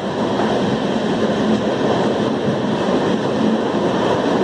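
Passenger train running through a railway tunnel, heard from an open coach doorway: a steady, loud noise of wheels on rails, with no break or change.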